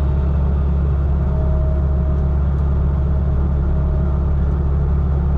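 A heavy diesel engine running steadily at an even speed, a low, constant rumble.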